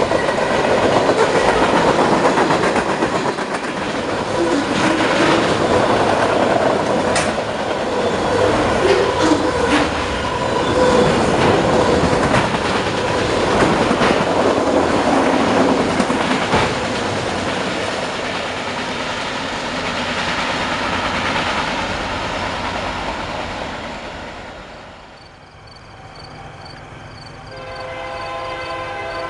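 A train passing close by, its wheels clattering over the rail joints, dies away about 25 seconds in. Near the end a locomotive's multi-note air horn sounds steadily.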